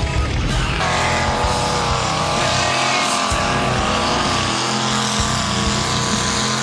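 Mud truck engine running hard at high revs, its pitch wavering up and down, coming in about a second in over a dense rushing noise.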